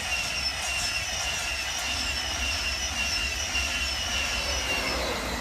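InterCity 225 train, hauled by a Class 91 electric locomotive, passing at speed: a steady rumble with a high whine that falls slowly in pitch, fading about five seconds in.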